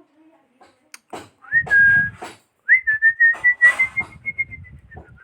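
Two clear whistled notes: a short one that rises and then holds, followed by a longer held note that climbs slightly. Light clicks and rustling sound under the second note.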